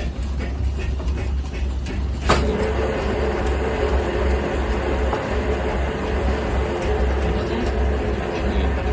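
Old copy-carving machine's electric motor running with a steady low hum; about two seconds in there is a sharp knock and the cutter starts hollowing the inside of a wooden clog, a steady rough cutting noise with a constant tone over the hum.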